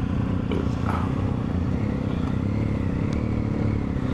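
BMW R1250GS flat-twin motorcycle engine idling steadily.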